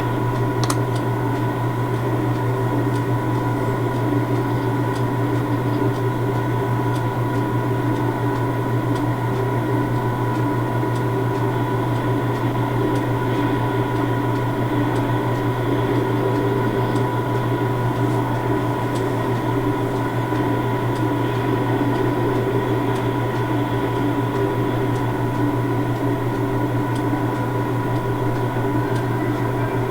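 Steady, even machine hum from standing railway equipment, a low drone with a thin high whine over it and a few faint ticks.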